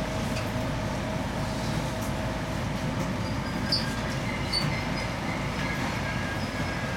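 Seibu 2000 series electric train moving slowly on its final approach into a terminal platform, heard from the cab: a steady low rumble of running, with a few short high squeaks around the middle and faint squeal near the end.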